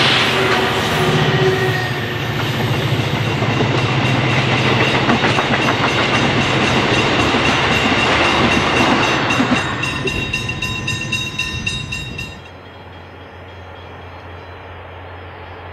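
EMD C class diesel-electric locomotives pass close by at speed, followed by passenger carriages rolling past with a rapid clickety-clack of wheels over the rail joints and a steady high whine. About twelve seconds in the noise drops away abruptly to a faint low drone from a locomotive in the distance.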